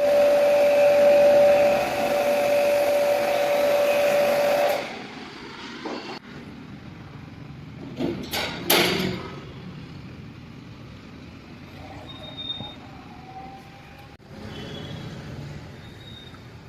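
A machine runs with a steady whine over a loud hiss, then cuts off about five seconds in. After that there are a couple of brief rustling or knocking noises against a quieter background.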